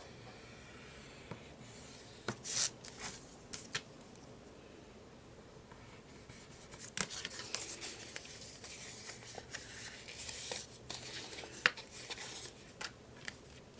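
Scissors snipping printed paper, with rustling as the paper is handled. There are a few sharp snips about two to four seconds in, and busier rustling and snipping from about seven seconds to twelve seconds.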